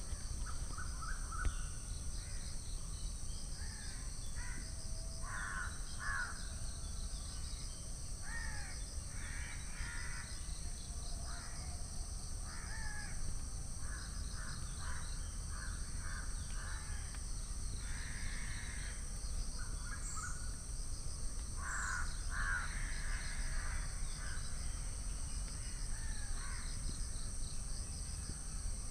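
Birds calling in the background, many short calls scattered through, over a steady high-pitched ringing with a fast pulsing just below it and a constant low rumble.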